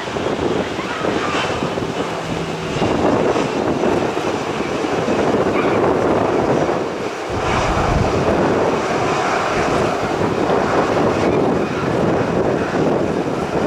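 Airliner engines on landing, a loud steady rush of engine noise, with strong wind buffeting the microphone in low gusts about seven seconds in.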